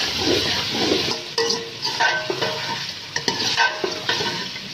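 Chicken and tomato masala sizzling in a metal pot while a metal ladle stirs it, scraping and knocking against the pot's sides. The sizzling is loudest in the first second.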